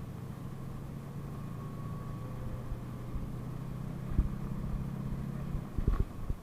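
PAZ-32054 bus engine running steadily while under way, its low hum changing about five and a half seconds in, with a sharp low thump and then a few more thumps near the end as the bus jolts.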